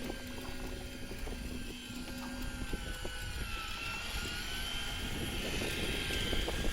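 A motor running steadily, with a high whine that wavers slightly in pitch over a low rumble; a lower hum drops out about two and a half seconds in.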